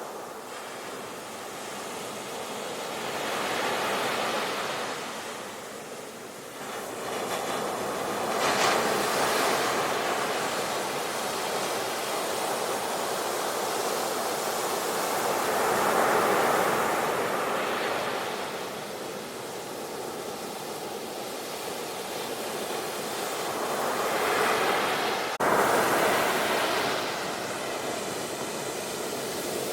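Sea waves breaking and washing ashore, the surf swelling and fading every few seconds. A brief sharp click about 25 seconds in.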